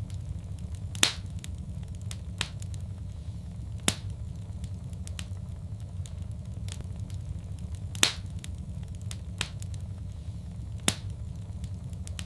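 Wood fire crackling in a fireplace: scattered sharp pops and snaps, four of them louder, over a steady low rumble.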